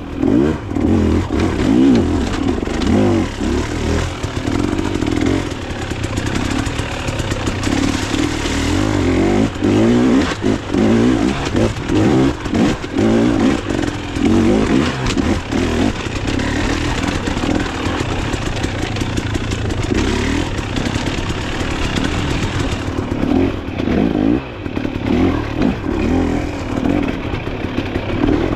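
Dirt bike engine running hard on a trail ride, its pitch rising and falling over and over as the throttle opens and closes, with some clatter.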